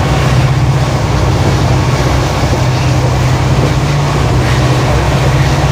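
Indian Railways WDP4D diesel locomotive's EMD 16-710 two-stroke engine humming steadily under power, over the running noise of the train.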